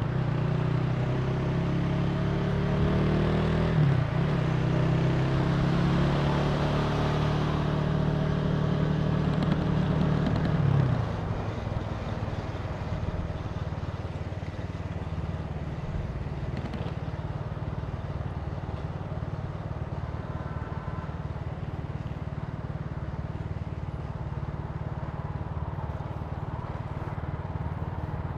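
Italika TC300 motorcycle engine running on the road, pulling with a steady, strong note for about eleven seconds, with a short break in pitch near four seconds. It then drops suddenly to a quieter, steady run for the rest.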